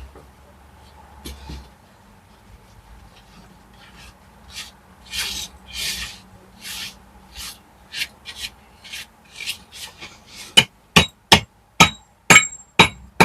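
Hand tool scraping over brickwork in repeated strokes, then, near the end, a steady run of sharp ringing hammer blows, about three a second.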